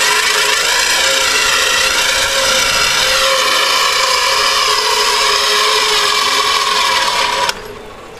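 Zipline trolley's pulley wheels running along the steel cable: a loud, steady whirring whine made of several tones that drift up and down in pitch. It stops suddenly about seven and a half seconds in.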